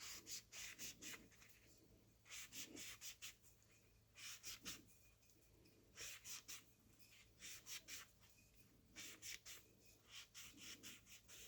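Cloth wiping the bore of a supercharger bearing plate clean with isopropyl alcohol. It is heard as faint groups of quick back-and-forth rubbing strokes, with short pauses between them, every second or two. This is the degreasing step before the new bearing is glued in.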